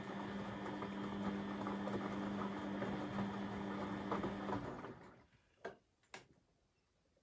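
Beko WMB 71643 PTE washing machine running with a steady hum and a rattle of fine ticks, which cuts off about four and a half seconds in; two short clicks follow a second or so later.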